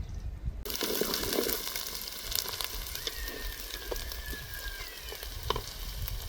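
Food frying in hot oil in a pan: a steady sizzle with scattered crackles that starts suddenly about half a second in.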